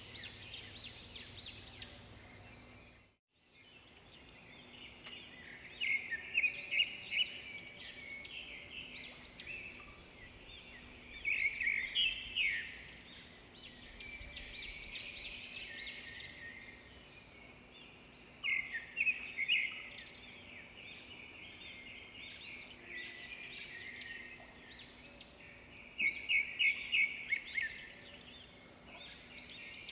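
Birds singing: short bursts of rapid, high chirps every several seconds, with quieter twittering between them. There is a brief gap in the sound about three seconds in.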